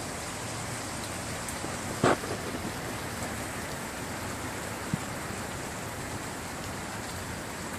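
Steady rain falling, an even hiss of rain on surfaces. About two seconds in there is a single loud, sharp knock, and a fainter tick comes a few seconds later.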